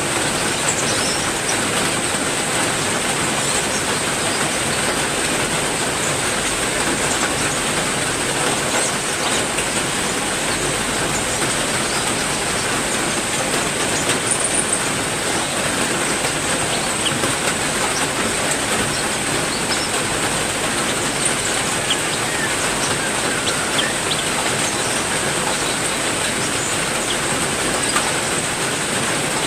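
Heavy rain falling steadily, an even dense hiss, with a steady high-pitched tone running under it and a few faint short bird chirps.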